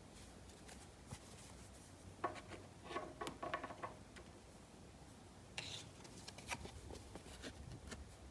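Trading cards and their packaging being handled: light rustling and small clicks, with a busier stretch of crinkling and rubbing about two to four seconds in and another brief burst near six seconds.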